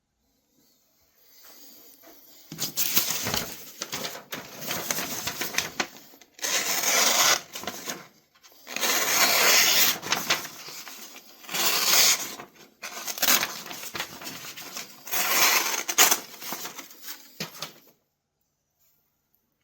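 Steel pocket-knife blade scraped against an abrasive in a series of rasping bouts of a few seconds each, with short pauses between them.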